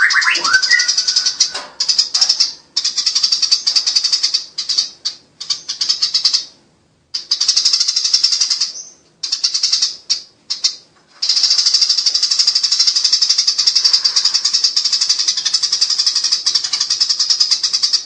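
Eurasian tree sparrows giving fast, rattling fighting chatter in bursts broken by short pauses, then one unbroken run for about the last seven seconds. A short whistled phrase sounds right at the start.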